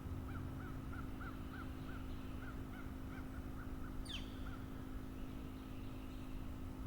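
Wild bird calling outdoors: a rapid run of about a dozen short, evenly spaced notes, followed by one quick high downward-sliding whistle about four seconds in.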